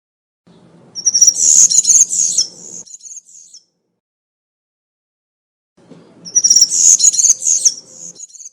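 European serin singing two phrases of its high-pitched, rapid jingling song, each about two and a half seconds long, a few seconds apart. A faint low hum sits under each phrase.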